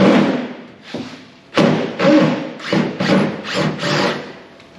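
A run of knocks and thuds from work on a rusty truck cab: one loud strike at the start, another about a second and a half in, then several more in quick succession, some ringing briefly.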